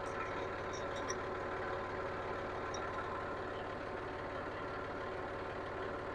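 John Deere 5303 tractor's diesel engine idling steadily.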